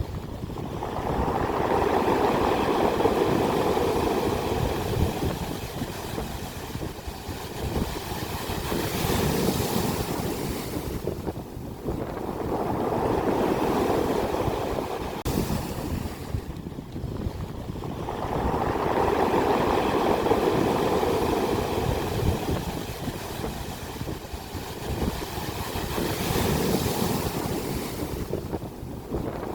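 Ocean waves breaking and washing up the shore, the surf swelling and ebbing in repeated surges every several seconds.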